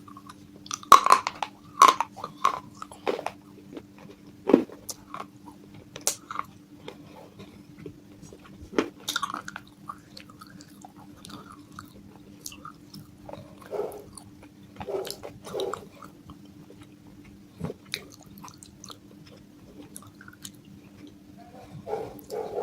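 Close-up biting and chewing of broken baked-clay pot pieces: sharp, crisp crunches come at uneven intervals with short pauses between them, over a faint steady hum.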